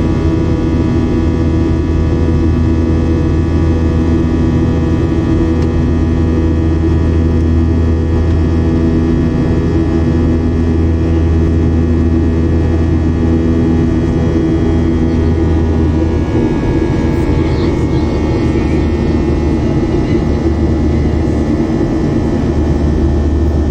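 Boeing 737-700's CFM56-7B jet engines running at high thrust, heard from inside the cabin: a loud, steady noise layered with engine tones, some of which shift slightly about two-thirds of the way through.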